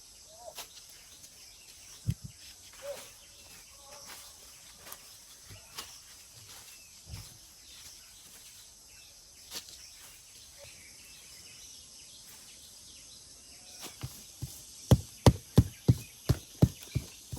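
Scattered knocks of a hand garden tool working the ground. Near the end it turns into a quick run of sharp strikes, about three a second.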